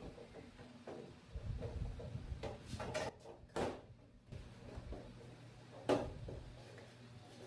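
Hands handling parts and tools: a series of separate knocks, clicks and rattles, the loudest about six seconds in, over a steady low electrical hum.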